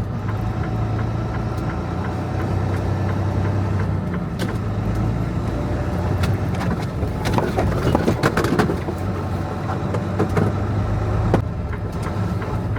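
Truck engine running with a steady low hum, with a cluster of clicks and rattles about seven to nine seconds in.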